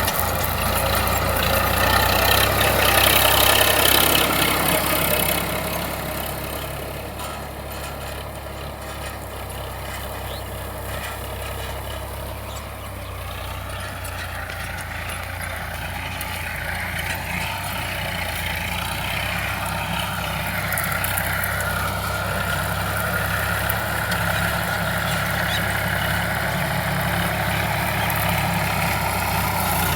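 Tractor diesel engine running steadily, a Sonalika DI 745. The sound dips for a while about a quarter of the way in and builds back up in the second half.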